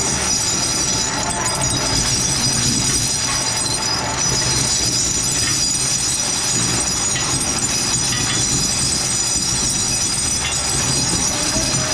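Workshop machinery running steadily, with a high whine over a low hum.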